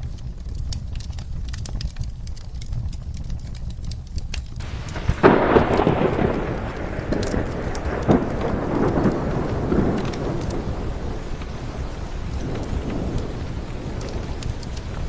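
Rain and a crackling wood fire, with a clap of thunder about five seconds in that rolls and rumbles for several seconds before fading back under the rain.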